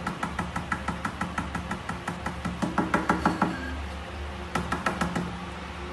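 A quick, even run of light taps or knocks, about seven a second, loudest near the middle and stopping about three and a half seconds in, then a second short run about a second later.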